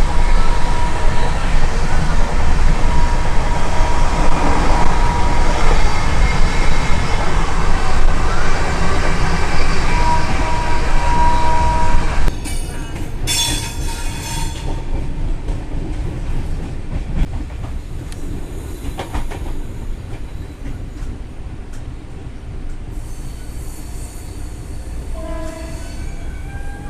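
Passenger train running along the track, heard from aboard: a loud rumble with long, steady high-pitched tones over it. About twelve seconds in, the level drops suddenly to a quieter, steady running rumble.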